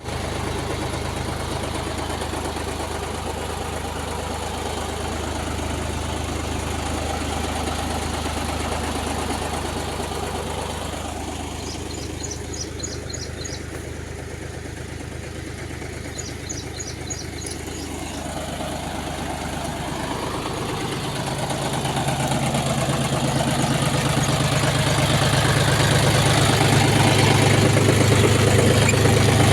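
Tractor diesel engine running steadily while driving a belt-operated PTO water pump. The engine note dips a little in the middle, then grows louder and heavier from about two-thirds of the way through, as if throttled up under the pump's load.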